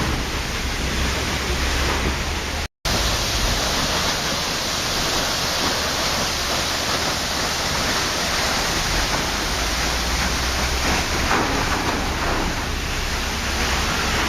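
Waterfall: a steady, dense rush of falling water. The sound cuts out completely for a split second about three seconds in, then resumes unchanged.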